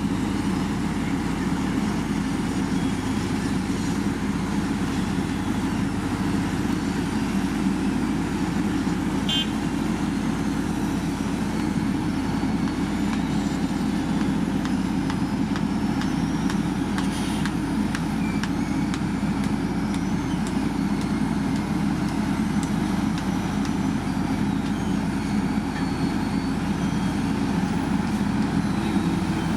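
Heavy diesel road-construction machinery at an asphalt paving job running steadily, a continuous low engine drone with no breaks.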